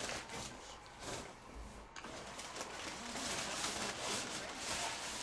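Handling noise: rustling with scattered clicks and knocks, denser from about halfway through, as of items and packaging being handled.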